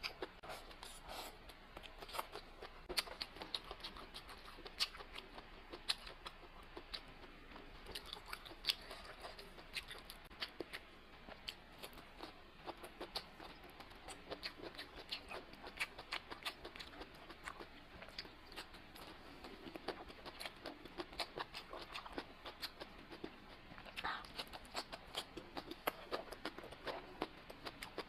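A person chewing and biting food, with many short, irregular crunchy clicks.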